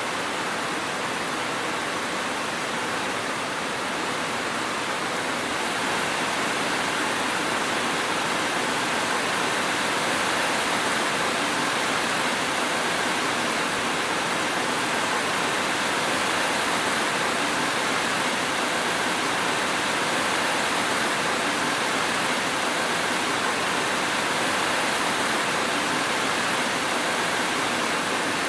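Steady rain falling, an even hiss with no thunder, growing slightly louder about six seconds in.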